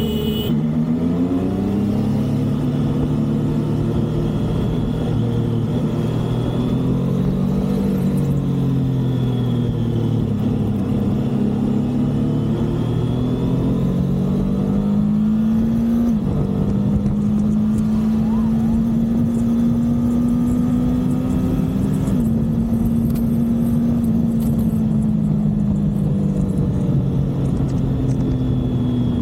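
Triumph motorcycle engine running on the move, its pitch rising and falling with the throttle and dipping briefly twice, over steady wind and road noise.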